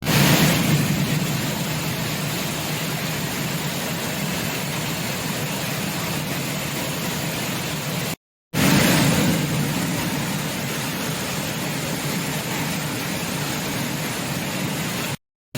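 Steady rush of heavy water pouring down Suruli Falls in flood. It cuts to silence briefly about eight seconds in and again near the end, starting again slightly louder each time.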